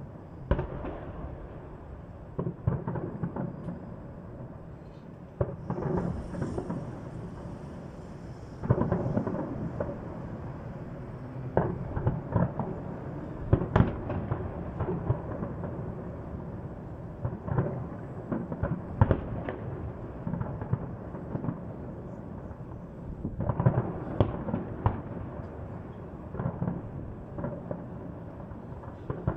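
Fireworks display: aerial shells bursting in a rolling series of booms and sharp cracks over a continuous rumble, with a denser volley near the end.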